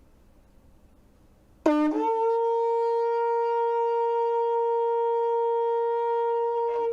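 Shofar sounding a tekiah: one long unbroken blast. It starts about a second and a half in on a brief lower note, jumps up and holds one steady pitch for about five seconds, then stops.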